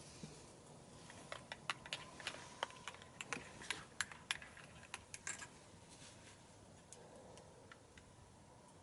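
Wood fire crackling in a small wood stove: a quick, irregular run of sharp snaps and clicks, thinning out to a few scattered pops near the end.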